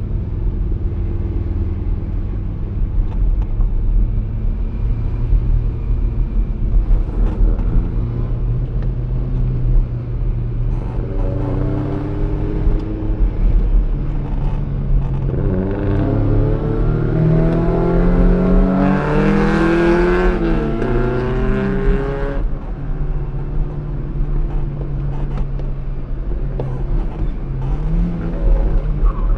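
Fiat X1/9's mid-mounted four-cylinder engine under racing load, heard from inside the cabin, with the revs stepping up and down through gear changes. About halfway through, the engine note climbs in a long rising run that peaks about two-thirds of the way in, then drops sharply.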